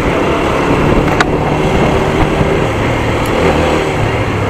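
Single-cylinder engine of a TVS Apache RTR 200 4V running under way at low speed in traffic, with a steady rush of riding noise over it. One sharp click about a second in.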